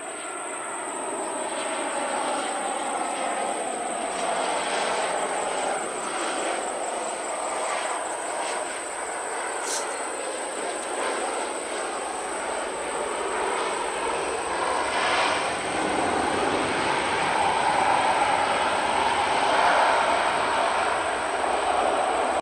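Jet airliner engines heard from the ground, a steady rushing noise that slowly grows louder.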